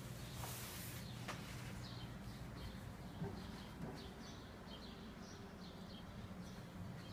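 Small birds chirping: short high chirps come several a second from about two seconds in, over a low steady hum. A brief rustle of the fabric shower curtain being pushed aside comes at the start.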